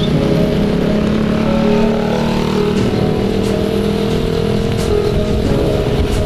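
Motorcycle engine running steadily while riding, with rumbling road and wind noise.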